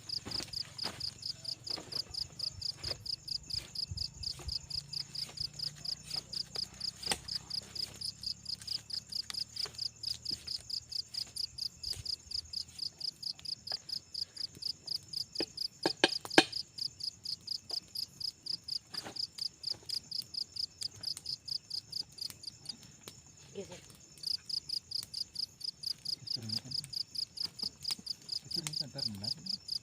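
Cricket chirping in a steady, rapid high-pitched pulse, about three chirps a second, breaking off briefly a little past two-thirds of the way through. A faint low hum fades away over the first dozen seconds, and a couple of sharp knocks come about halfway through.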